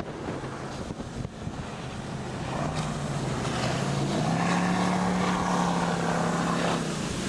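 Motorboat engine under wind and water noise; about two and a half seconds in the engine note climbs in pitch as it speeds up, holds steady, then drops away just before the end.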